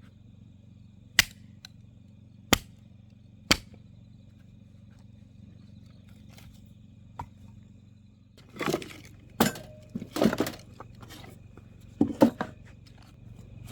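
Sharp cracks and knocks: three single cracks about a second apart, then, after a pause, a louder flurry of cracks and knocks.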